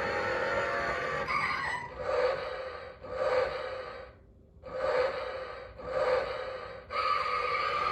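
A run of short, breathy, gasp-like sounds, about one a second, broken by a brief near-silent gap midway. A steady high tone comes in near the end.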